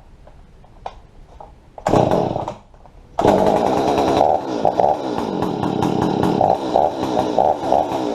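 Stihl 025 chainsaw's two-stroke engine being pull-started: one brief pull about two seconds in, then just after three seconds it catches and keeps running, its speed wavering. The saw, which had been flooding and would not start, now starts and runs.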